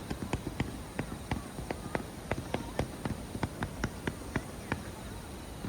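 Fireworks crackling: a run of small, sharp pops, several a second and somewhat uneven, that stop about five seconds in.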